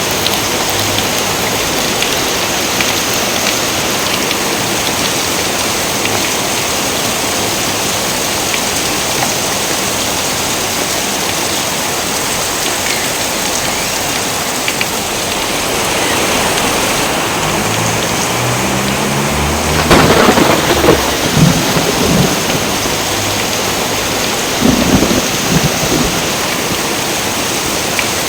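Steady heavy rain with thunder. A low rumble builds about two-thirds of the way through and breaks into a loud crack of thunder, followed by another clap near the end.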